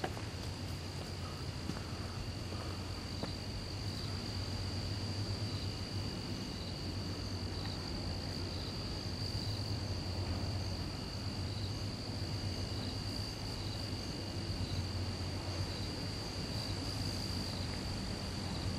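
Chorus of crickets: a continuous high trill with a second, fainter trill that comes and goes, and short chirps repeating about once a second, over a low steady hum.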